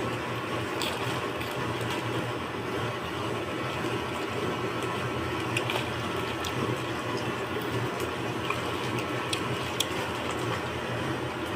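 Steady rushing background noise, with a few scattered light clicks of spoon and dish while fish soup is eaten.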